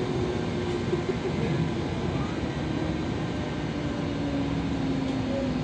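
Sanyo Electric Railway train running, heard from inside the car: a steady rumble of wheels and running gear, with a motor whine that slowly falls in pitch.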